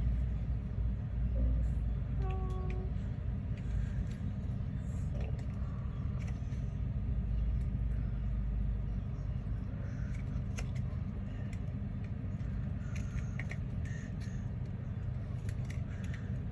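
Steady low rumble under scattered small clicks and taps from handling small craft pieces; a short pitched tone sounds about two seconds in.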